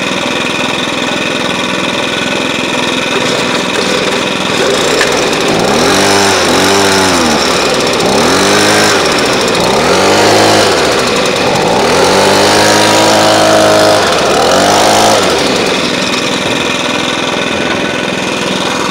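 Small gas engines of Stihl yard tools running just after a cold start. One gives a steady drone while another is revved up and back down in repeated throttle blips between about 6 and 15 seconds in, with a longer held rev near the middle of that stretch.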